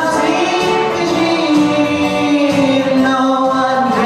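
Singing with musical accompaniment, the voice holding long notes.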